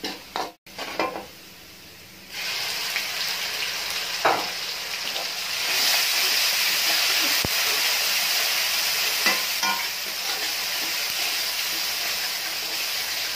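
Garlic-ginger paste going into hot oil with browned onions in a metal karahi: a loud sizzle starts about two seconds in and grows stronger about halfway through. A spatula stirs and knocks against the pan a few times.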